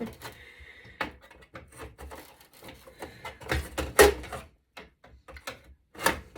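Irregular clicks, knocks and clatter of hands and tools working at a metal server chassis and its circuit board, with the loudest knocks about four seconds in and again about six seconds in.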